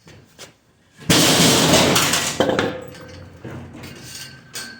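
Stainless steel parts clattering and clanking. A loud rattling clatter starts about a second in and lasts about a second, then comes a sharp clank that rings briefly, followed by lighter knocks.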